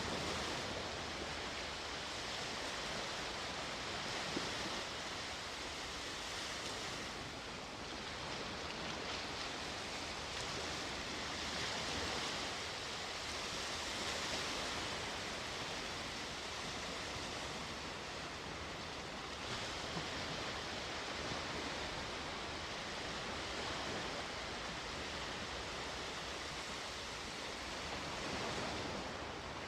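Sea waves washing onto the shore: a steady rush of surf that swells and eases every several seconds.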